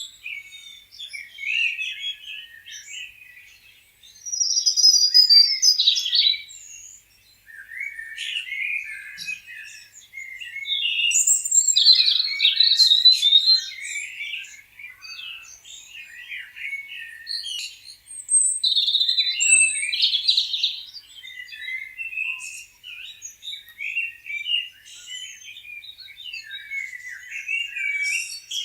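Several small birds chirping and singing at once: a dense, overlapping chorus of short high chirps and trills that swells louder and quieter by turns.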